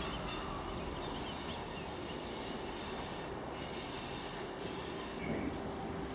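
Train running steadily on the rails: an even rumble with faint, steady high-pitched squealing tones from the wheels.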